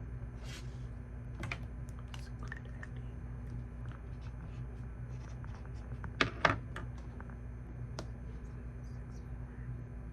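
Computer keyboard typing: irregular, scattered keystrokes, with two louder clacks about six seconds in, over a steady low hum.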